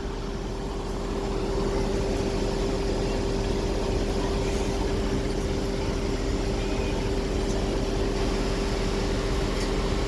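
Blue Bird school bus engine running steadily with a constant hum, growing a little louder about a second in.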